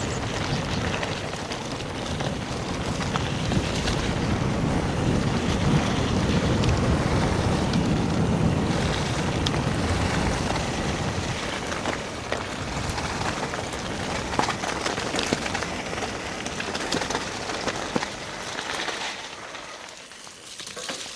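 Wind buffeting an action camera's microphone and mountain bike tyres running through a wet, muddy trail at speed, with scattered knocks and rattles from the bike. The rush eases near the end as the bike slows.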